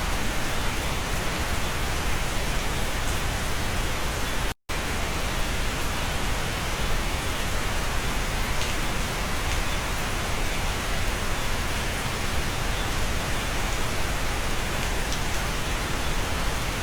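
Steady heavy rain heard from inside a cabin, an even hiss of drops. There is one very short cut to silence about four and a half seconds in.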